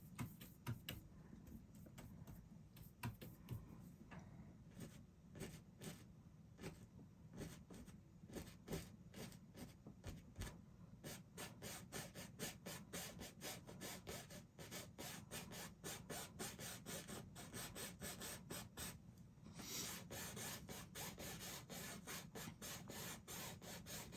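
Faint bristle paintbrush strokes on canvas, dabbing and scrubbing paint in short strokes that quicken to several a second about halfway through, turning to a steady scrubbing near the end.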